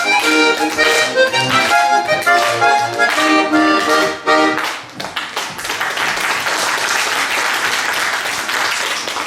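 Accordion playing a lively chastushka tune that ends about five seconds in, followed by audience applause.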